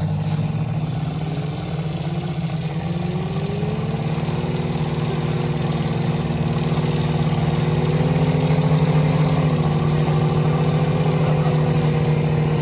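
Motocross bike engine rising in pitch over the first few seconds, then running at a steady, constant pitch, with a slight dip about nine seconds in.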